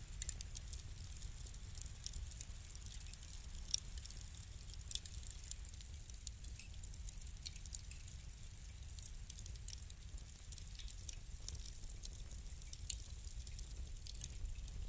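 Wood fire burning in a fireplace: many small, irregular crackles and pops, one louder pop about four seconds in, over a steady low rumble.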